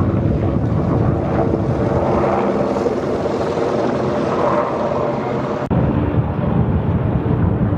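Military aircraft engines droning overhead during a flypast, with wind on the microphone. About two-thirds of the way through the sound changes abruptly to a duller rumble.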